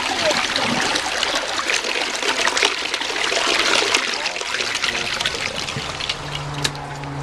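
1999 Cisa toilet at the tail of a flush: water runs and trickles into the bowl, fading a little toward the end. About six seconds in, a low steady hum begins.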